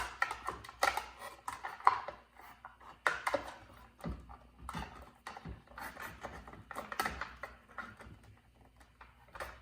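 Irregular clicks and light metallic clinks as a circular saw blade is slid onto the spindle and the lower blade guard is handled.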